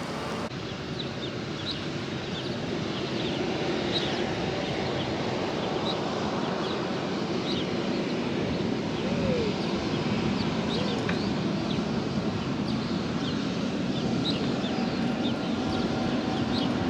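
Distant jet aircraft engines running as a steady rumble that slowly grows louder, with small birds chirping in quick repeated notes over it.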